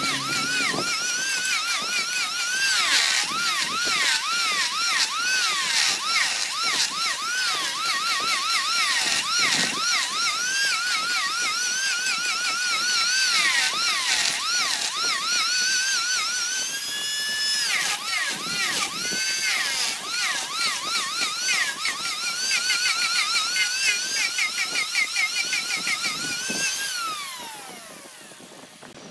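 High-speed electric power tool whining, its pitch dipping and recovering several times a second as it is repeatedly loaded into the work. Near the end it spins down with a falling whine and fades.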